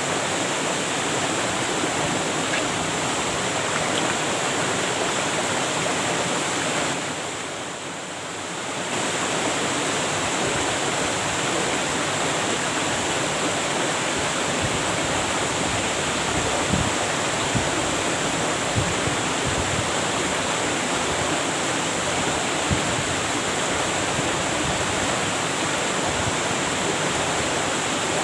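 Waterfall pouring, a steady dense rush of falling water that softens briefly about eight seconds in.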